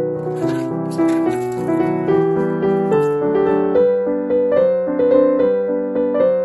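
Background piano music, a gentle melody of evenly paced notes.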